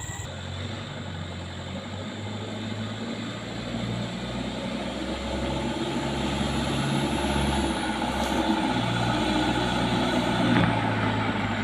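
Truck engine running and working, growing louder over the first several seconds, its pitch shifting a few times.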